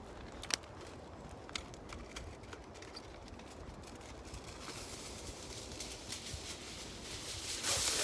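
Wood fire crackling in a fire stand, with a few sharp pops in the first half and a growing hiss, then a brief louder rush of noise near the end.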